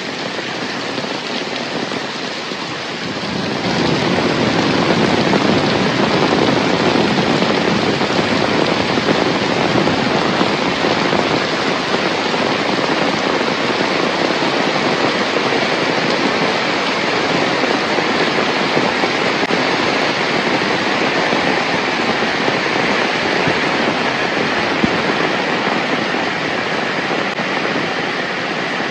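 Heavy rain falling steadily, a dense even hiss that swells louder and fuller about three to four seconds in and then holds.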